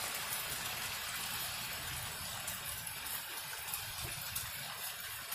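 Heavy rain pouring steadily onto wet asphalt.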